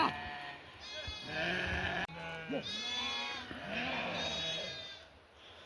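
Livestock bleating: a run of wavering calls in quick succession, some overlapping, fading near the end.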